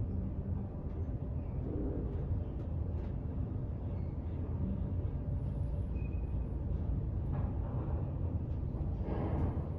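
Steady low mechanical rumble and hum with no clear events, the kind of background a ship's machinery, ventilation or a moving elevator gives.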